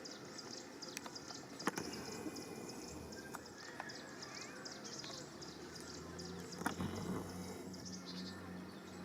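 Outdoor ambience: a dense, rapid high-pitched chirring of insects or birds, a few sharp clicks, and a low steady hum that comes in about three seconds in.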